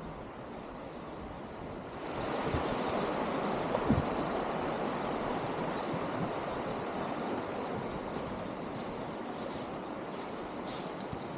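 Rushing water, a steady noise that grows louder about two seconds in and then holds.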